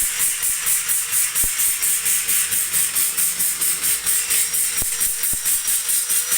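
Blade-working machine in a bandsaw shop running, with even rhythmic hissing strokes about four or five times a second over a steady motor hum.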